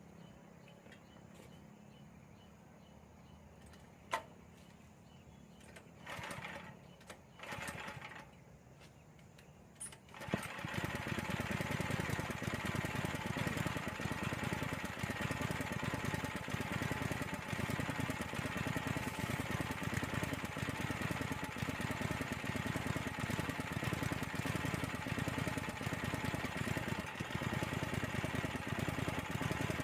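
Small engine of a motorised soil tiller starts about ten seconds in, then runs steadily. Before it starts there is only a low hum, with a click and a couple of short noises.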